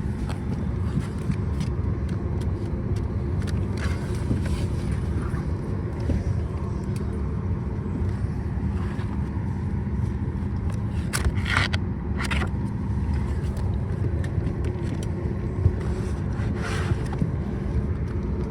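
Steady low rumble and hum from inside a vehicle, with a few brief knocks and rustles, the loudest about eleven seconds in.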